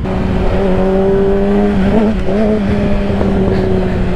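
Yamaha R6 sport bike's inline-four engine running at steady revs, with a brief slight wobble in pitch about halfway through.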